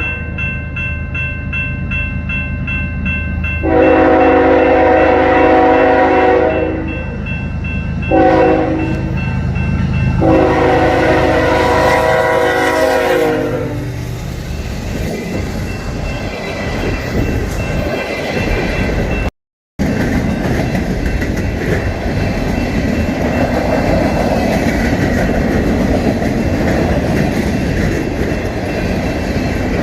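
Diesel freight locomotive horn sounding the grade-crossing signal, finishing with a long blast, a short one and a long one. Then the locomotives and rail cars roll past with a steady rumble and wheel clatter.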